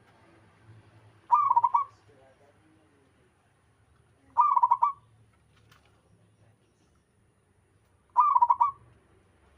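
Zebra dove (perkutut) cooing: three short, rapidly stuttering coo phrases, each about half a second long and spaced three to four seconds apart.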